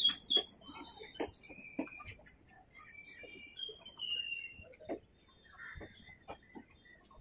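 Birds chirping: many short, high calls at changing pitches, thickest in the first four seconds and thinning out after, over scattered clicks and knocks.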